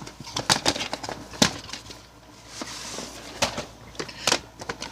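Plastic VHS cases and tapes being handled: a run of sharp clicks and taps, with a brief sliding rustle about two and a half seconds in.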